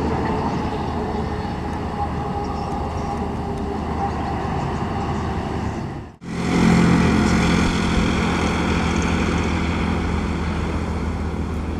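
Heavy road traffic passing: a steady drone of engine and tyre noise. About six seconds in the sound breaks off abruptly, then comes back louder with a steady low engine hum from a large vehicle close by, which slowly eases off.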